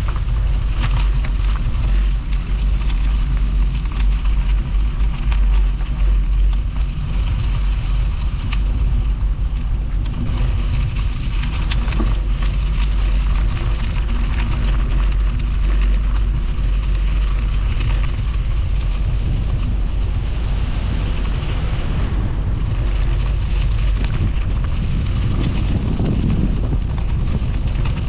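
Wind rumbling on the microphone of a moving bicycle, over a steady crackle of its tyres rolling along the canal path.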